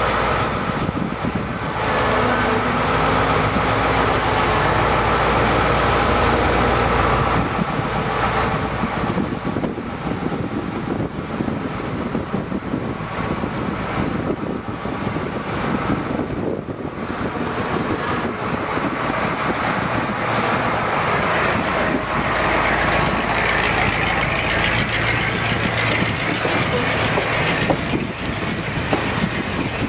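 McKeen motor car, a self-propelled railcar, with its engine running steadily.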